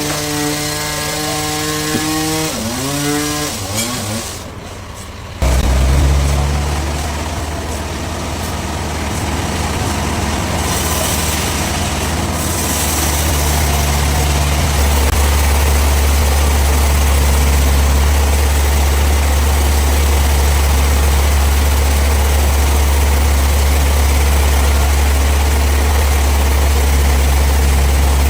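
An engine-driven machine runs with a pitch that sags twice and then drops away about five seconds in. A heavy engine then comes in abruptly and idles with a steady deep drone.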